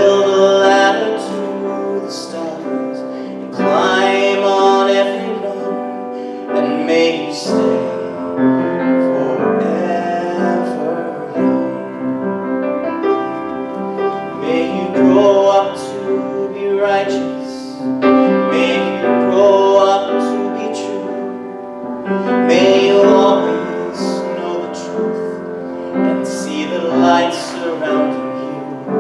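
A slow song sung by a man with piano accompaniment.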